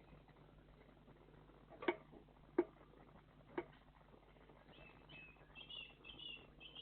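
Three sharp knocks about a second apart, then from about five seconds in a quick run of high, short calls from small songbirds.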